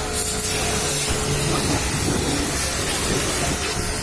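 High-pressure washer spraying water, a steady hiss with a steady hum underneath.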